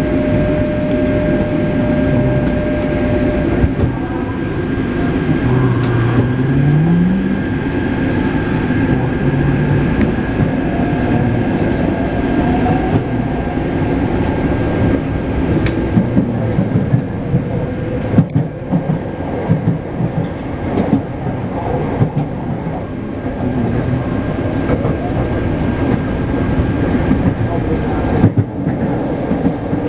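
Taipei Metro C381-type metro train running, heard from inside the car: continuous running noise with wheel clatter. A tone climbs in pitch about six seconds in, and a thin steady whine sits above it.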